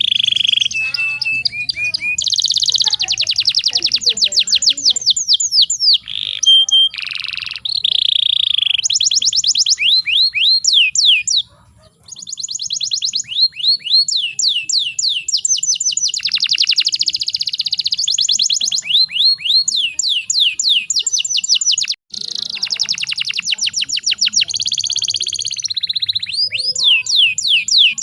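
Domestic canary singing: fast trills and rolls of repeated sweeping high notes, with two brief breaks.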